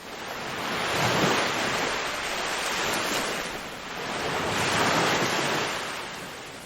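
Ocean surf: waves washing in as a steady rush that swells and ebbs, building about a second in, easing briefly, then surging again around five seconds before fading back.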